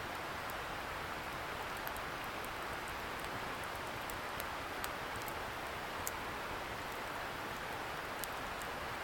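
Wood campfire crackling with scattered sharp pops and ticks, over a steady rushing hiss from a distant river.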